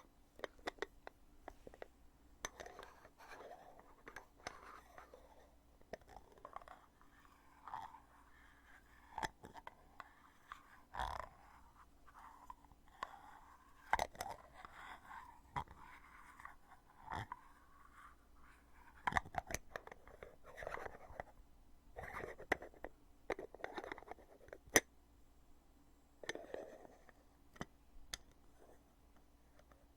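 Lid of a foundation container being opened and closed over and over, close-miked: sharp clicks with rubbing and scraping in between.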